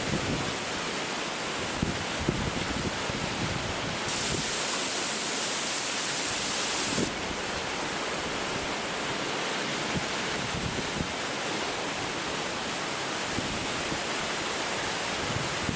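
Strong typhoon wind rushing through bamboo: a steady hiss, with a stronger gust about four seconds in that ends abruptly some three seconds later. Gusts buffet the microphone now and then with low thumps.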